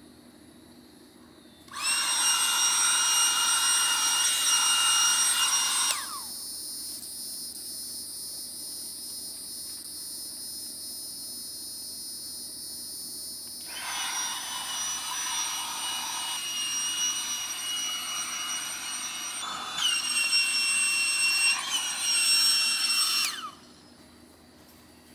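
Small electric motor running with a high-pitched whine, loud for a few seconds, then quieter and uneven, louder again near the end before cutting off suddenly.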